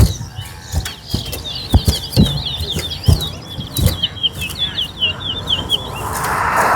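Caged towa-towa seed finch singing a rapid run of quick, repeated high slurred notes, with sharp clicks and knocks underneath. A rushing noise swells in near the end.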